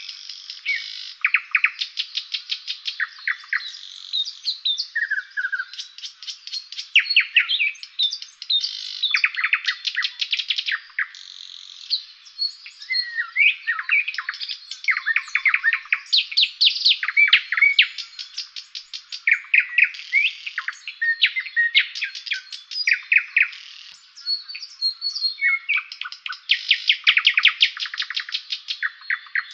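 Songbirds singing continuously in a spring chorus, with phrase after phrase of rapid trills and clear whistled notes that follow one another with hardly a break.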